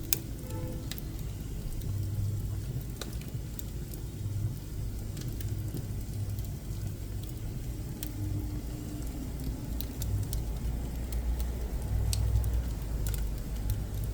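Pine firewood burning in a wood stove: scattered sharp crackles and pops over a low, steady rumble.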